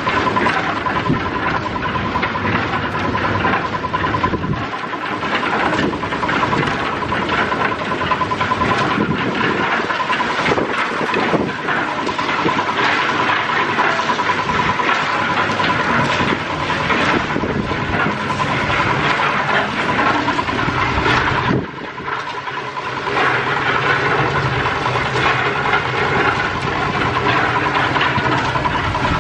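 Construction machinery running steadily with a constant hiss and a steady high tone. It dips briefly about three-quarters of the way through, then carries on with a lower engine hum.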